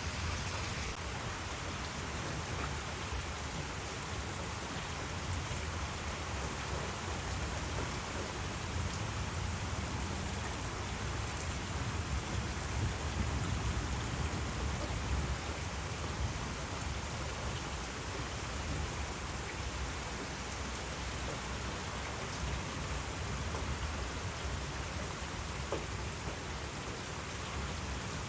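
Heavy thunderstorm rain pouring steadily, with a low rumble underneath that swells a little about halfway through.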